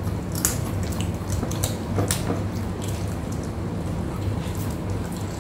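Close-up eating sounds of crispy deep-fried tilapia and sides eaten by hand: scattered short, wet mouth clicks and chews, over a steady low hum.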